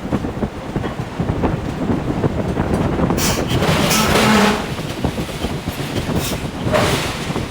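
Forge shop with a hydraulic forging hammer at work: a dense rattling rumble of irregular knocks, with a few louder, sharper bursts about three seconds in and again near the end.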